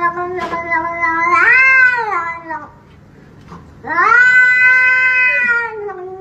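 Domestic cat yowling in two long, drawn-out calls. The first bends up and back down in pitch near its end; the second starts about four seconds in and slides lower in pitch near the end.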